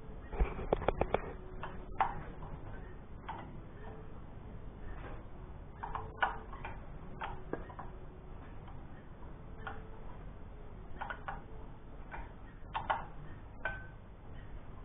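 Intermittent light clicks and knocks of hand tools at work, with a quick run of clicks near the start and single taps every second or two after.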